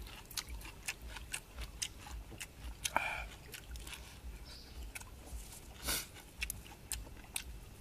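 Someone eating: irregular crisp crunches and clicks of biting and chewing, as with fresh raw vegetables and grilled squid, with one louder crunch about three-quarters of the way through.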